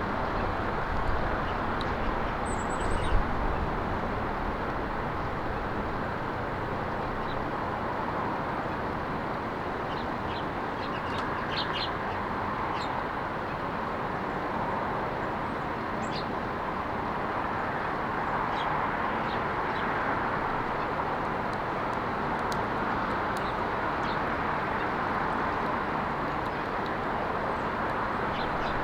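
Steady hum of road traffic with scattered short chirps of small birds, a cluster of them about ten to thirteen seconds in. A brief low thump about three seconds in.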